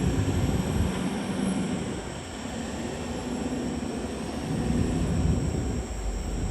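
CAT D6R XL bulldozer's diesel engine running under working load, easing off about two seconds in and building again near the end.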